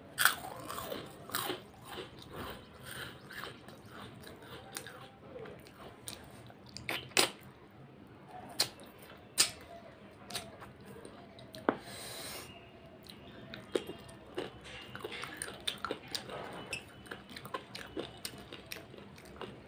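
Close-up eating of a hand-fed mouthful of rice and chicken curry: wet chewing with many short sharp smacks and clicks of the mouth scattered throughout.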